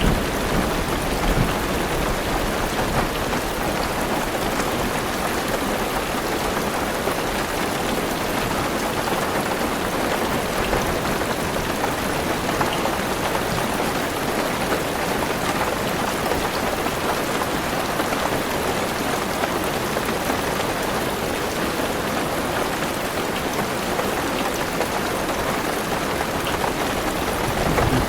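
Heavy rain falling steadily on a car's roof and windows, heard from inside the car as an even, unbroken patter.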